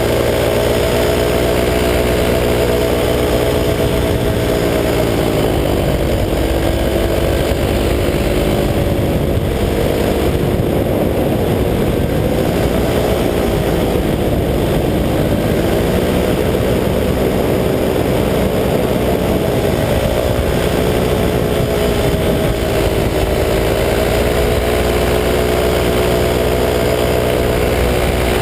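Two-stroke 185 cc paramotor engine running steadily in flight, its pitch dipping briefly and coming back up three times.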